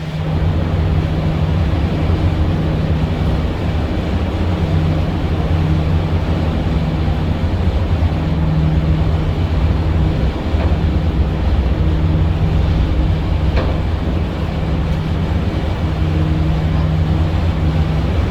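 Boat engine running steadily with a low drone that swells and fades every second or two.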